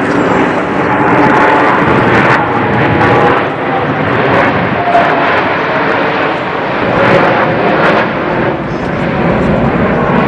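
Fixed-wing aircraft flying past with loud, continuous engine noise that swells and eases slightly.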